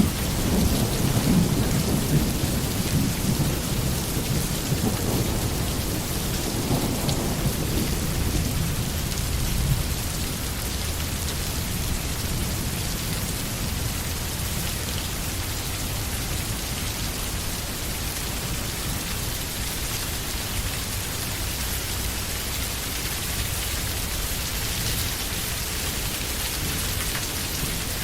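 Steady heavy rain falling on forest foliage, with a low rumble that is strongest in roughly the first ten seconds and then eases off.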